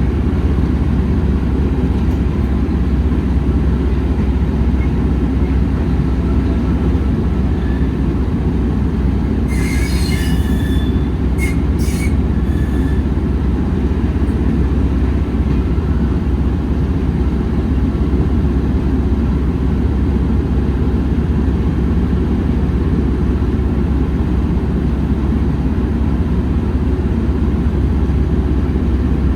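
Train running along the rails with a steady low rumble, and a brief patch of high-pitched wheel squeal and clicks about ten seconds in.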